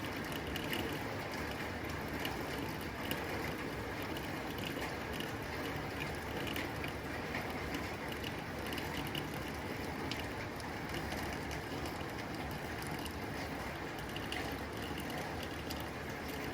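Steady rain falling on a tin roof: a constant wash of rain with many small, irregular ticks of drops striking the metal.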